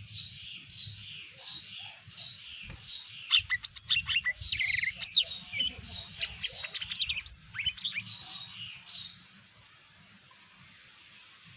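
Cucak ijo (green leafbird) singing: a loud, fast run of varied chirps, whistles and sweeping notes from about three to eight seconds in. Under it runs a steady series of short falling chirps, about three every two seconds, which stops about nine seconds in.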